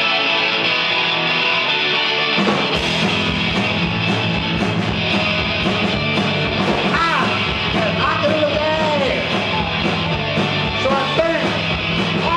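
Live rock band starting a song: a sustained electric guitar chord rings, then drums and bass come in about two and a half seconds in and the full band plays on.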